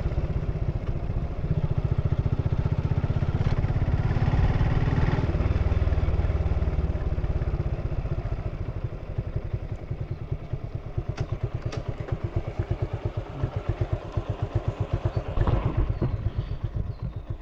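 Suzuki Gixxer motorcycle on its stock exhaust, running steadily and then settling to a slower, chugging idle with distinct exhaust pulses. The engine revs briefly near the end.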